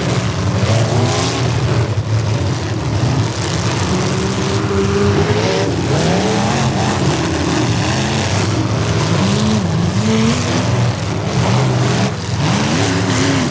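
Several demolition derby cars' engines running at once, each revving up and down.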